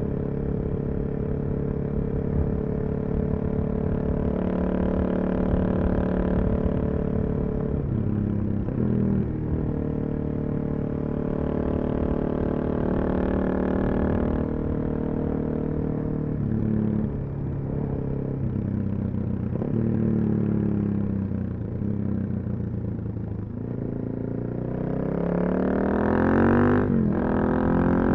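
Suzuki DR-Z400SM's single-cylinder four-stroke engine through a full Yoshimura exhaust, ridden on the road: it holds a steady cruising note, dips and picks up again several times as the throttle closes and opens, and near the end the revs climb in several short rises.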